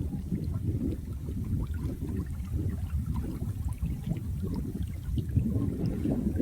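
Running water with a steady, deep gurgle and scattered small splashes and drips over it.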